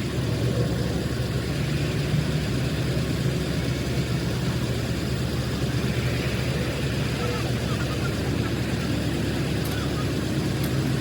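Truck diesel engine running steadily at a constant speed.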